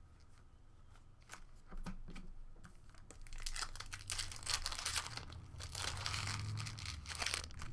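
Trading card pack wrapper being torn open and crinkled by hand: a few faint clicks, then from about three seconds in a dense run of tearing and crinkling.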